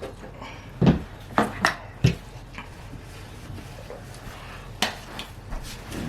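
Forks knocking and scraping against bowls of instant noodles during eating: a handful of short, sharp clinks, the loudest about a second in and again near five seconds.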